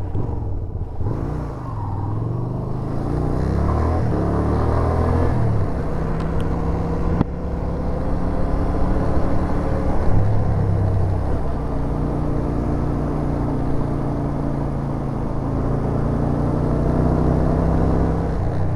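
Yamaha SRV250 V-twin motorcycle engine pulling away and accelerating, its pitch climbing and dropping through several gear changes in the first six seconds, then running at a steady cruise.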